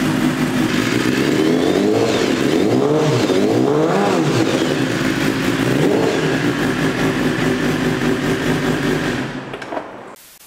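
BMW S1000RR inline-four sport bike engine running just after being started on a freshly fitted battery, after standing a month. It is blipped up and down a few times about two seconds in, settles back to idle, and stops near the end.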